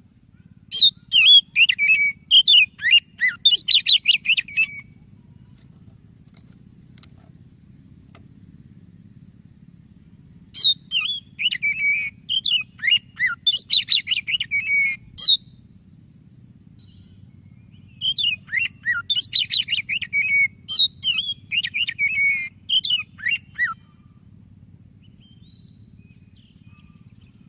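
White-breasted Oriental magpie-robin (kacer dada putih) singing: three bursts of rapid, varied whistled phrases and trills, each about four to five seconds long with pauses between, over a faint low hum.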